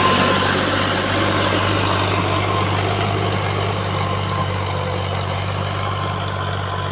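Tractor's diesel engine running steadily under load while pulling a plough through the field.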